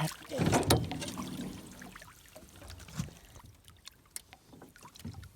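Lake water sloshing and splashing against the side of a small fishing boat as a fish is held and worked in the water to revive it. There is a louder splashing stretch in the first second, then quieter lapping with a few light knocks.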